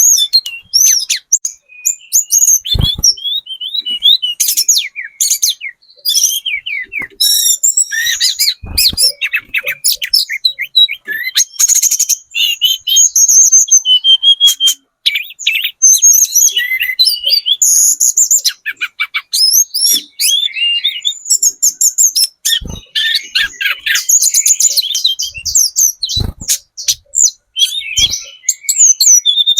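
Tledekan gunung (hill blue flycatcher) singing a fast, varied song of chirps and trills with hardly a pause, broken by a few short sharp clicks.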